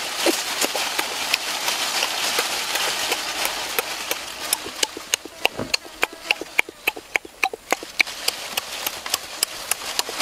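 Wet chewing and lip-smacking of a person eating cooked pig intestines with his mouth close to the microphone: a rapid run of sharp, sticky smacks, most distinct in the second half.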